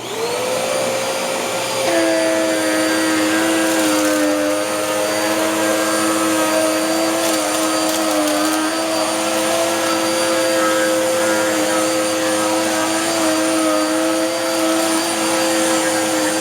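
A Dirt Devil Power Max Rewind upright vacuum switches on, its motor whining quickly up to speed. It then runs steadily, and about two seconds in a second, lower tone joins it that wavers slightly.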